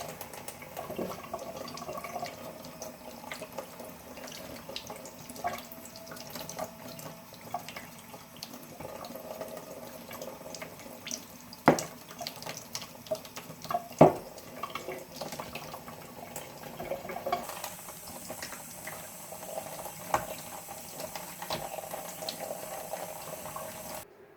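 Water running from a tap into a kitchen sink, with splashing and small handling clicks throughout. Two sharp knocks stand out, about twelve and fourteen seconds in.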